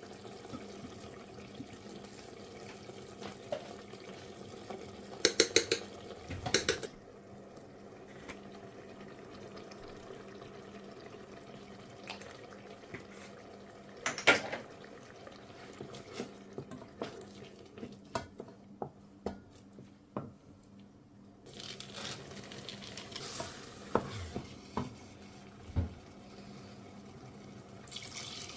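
Kitchen work: dishes and utensils clinking and knocking. There is a quick run of clatters about five seconds in, a sharp knock about fourteen seconds in, and scattered small taps later, all over a steady low hum.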